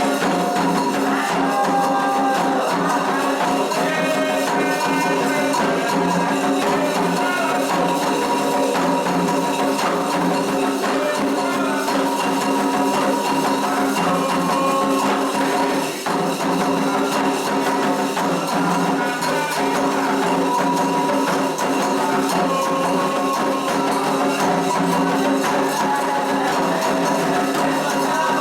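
Candomblé ritual music for Xangô: voices chanting a melody over a steady beat of shaken and struck percussion.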